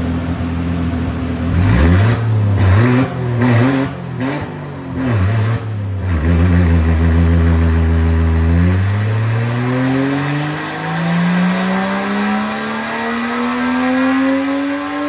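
Turbocharged Toyota 1G-FE inline-six running on a chassis dyno through a straight-pipe exhaust. Its revs rise and fall several times with short breaks in the first few seconds, then hold steady. From about nine seconds in, it climbs in one long, steady rise in pitch as it pulls through a wide-open ramp run.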